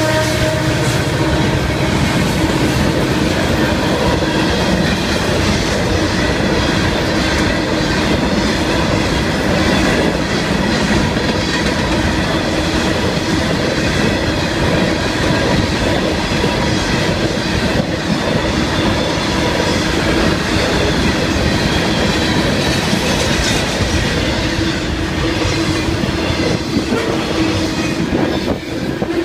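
A Florida East Coast freight train's cars rolling past steadily: loaded rock hopper cars, then double-stacked container well cars. Their steel wheels clatter over the rail joints, with a steady squeal running under the noise.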